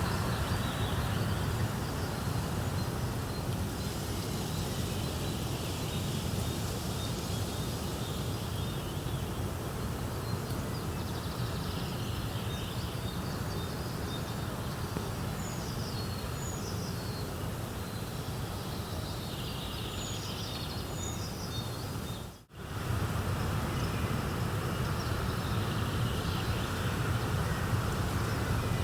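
Steady outdoor nature ambience: a continuous noisy bed with small birds chirping in short high calls through the middle. The sound cuts out for an instant about three-quarters of the way through, then resumes.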